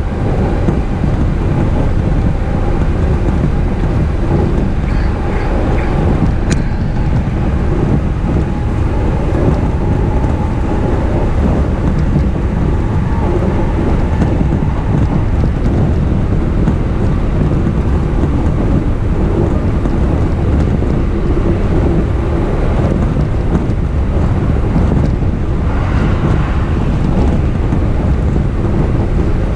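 E233-series electric commuter train running along the line, heard from inside the car: a loud, steady rumble of wheels on rails.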